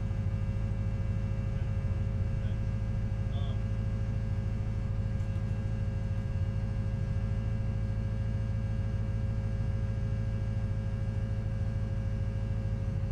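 C5 Corvette's V8 idling, a steady low drone that holds constant without revving.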